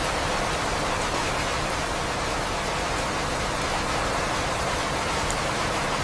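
Steady rain, an even hiss with no let-up, with a few faint drop ticks.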